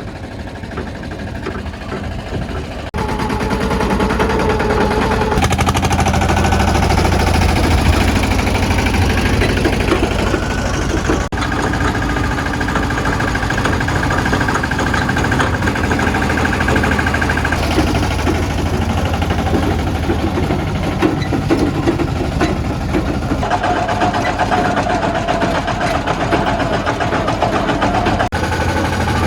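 Mini Steeltrac tractor's small engine running steadily, its sound shifting abruptly a few times.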